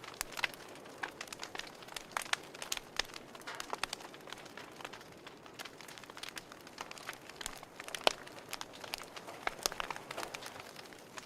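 Fireplace crackling: irregular pops and snaps over a soft hiss, with one sharper pop about eight seconds in.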